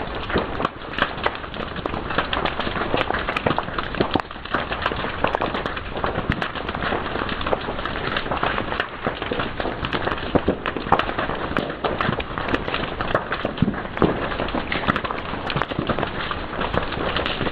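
Wood fire crackling and popping steadily, with many sharp snaps over a continuous hiss.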